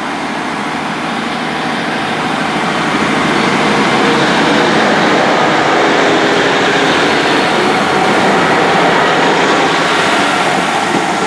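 Class 150 Sprinter diesel multiple unit pulling away from the platform, its underfloor diesel engines running under power. The sound grows louder over the first four seconds or so, then holds steady.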